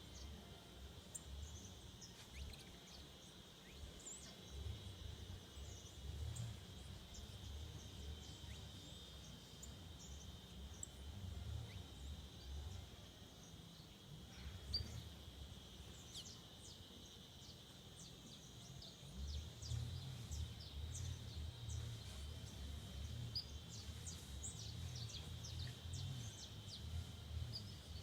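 Forest ambience: a steady high insect drone with many short, high bird chirps scattered over it, thickest in the second half. Under them a low rumble comes and goes, heaviest near the end.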